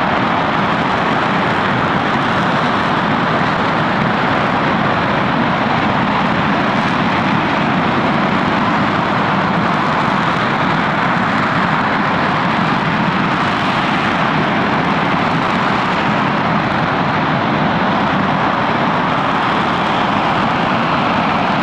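RS-25 liquid-fuel rocket engine firing steadily on a test stand: a loud, even rushing noise that holds without change or break.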